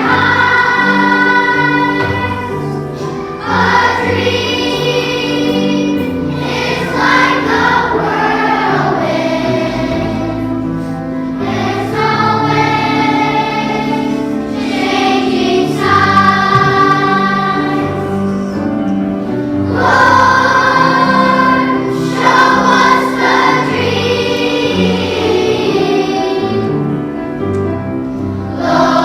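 Children's choir singing a song in unison over instrumental accompaniment.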